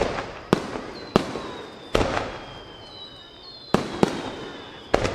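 Aerial firework shells bursting in quick succession: about eight sharp bangs in five seconds, each dying away in a rolling echo. High whistling tones sound between the bangs, slowly falling in pitch.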